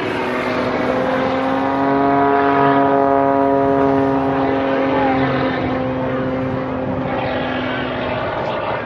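Propeller aerobatic plane's piston engine droning overhead in a steady, pitched tone that grows loudest a couple of seconds in and eases off near the end.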